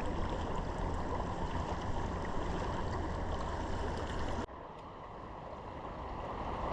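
Steady rushing of river rapids. About four and a half seconds in it drops suddenly quieter, then swells gradually back up.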